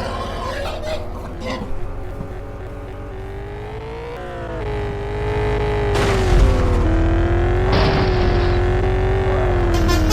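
A vehicle engine sound: a steady droning hum whose pitch wavers slowly up and down, with short louder surges about halfway through and again near the end.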